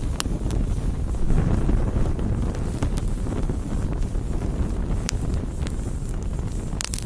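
Wood campfire burning: a steady low rumble with scattered sharp crackles and pops, several of them close together near the end.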